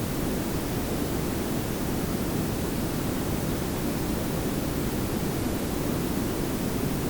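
Steady synthetic pink noise and brown noise layered together: an even hiss over a low rumble, with no changes.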